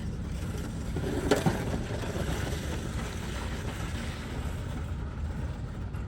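Ford Expedition SUV running low and steady as it pulls a hitch-mounted plow blade through loose dirt, with a short louder noise about a second and a half in.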